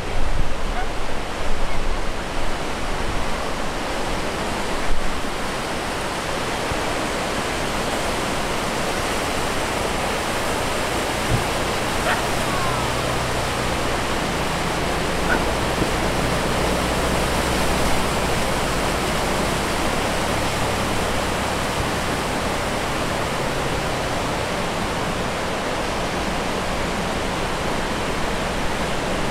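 A river in spate rushing by: the steady, continuous sound of fast-flowing floodwater.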